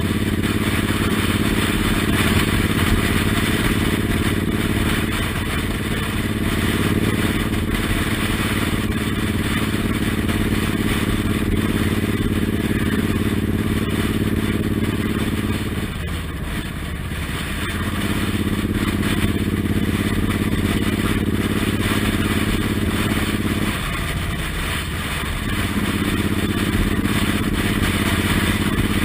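Suzuki Intruder M1800R's big V-twin engine running at a steady cruise during a ride, over a constant rush of wind noise. The engine note drops away briefly three times: once about five seconds in, once past the middle and once near the end.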